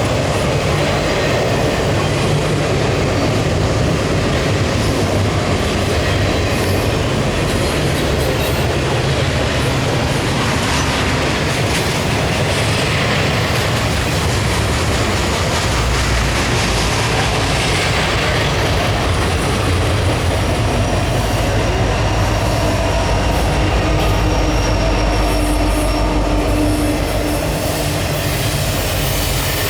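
Intermodal double-stack freight train rolling past, its steel wheels running on the rails in a continuous loud rumble. The low rumble grows heavier about halfway through and stays strong until near the end.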